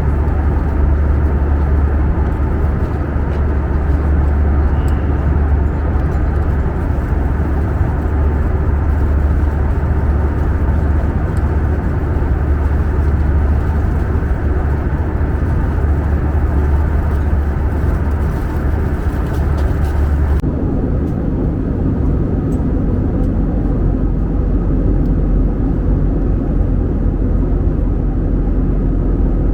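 Steady cabin noise of an Airbus A320 in flight: a low drone under a broad rush of engine and air noise. About two-thirds of the way through the sound changes abruptly, the hiss dropping away and the drone sitting lower.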